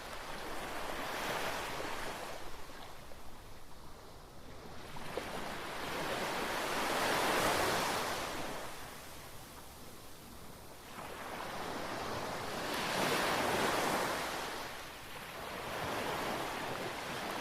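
Atlantic surf washing onto the beach: a hiss of breaking waves that swells and fades in slow surges about every six seconds.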